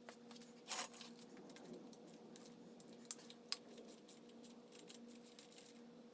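Faint scattered clicks and light taps of tools and small parts being handled during an engine teardown, over a steady low hum. A short rattle comes under a second in, and two sharper clicks come about three seconds in, half a second apart.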